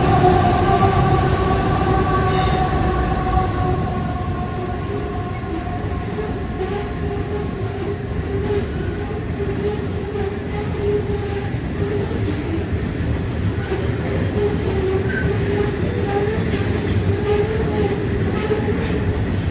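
A train running through the station platform: steady rumble of wheels on rail with a held, slightly wavering tone, and higher tones that drop a little in pitch in the first few seconds.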